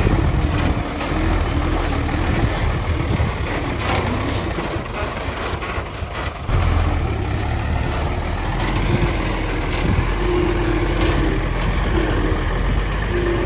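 Heavy diesel construction machine engine running steadily with a deep rumble and a wavering whine. It gets suddenly louder about six and a half seconds in.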